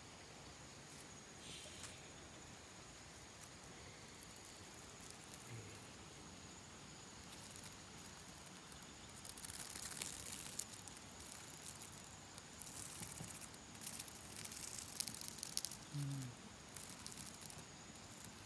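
A steady, high, thin insect drone, like a cricket's, runs underneath. Two stretches of rustling come in the second half, and there are three brief, low vocal sounds: one near the start, one in the middle, and one near the end.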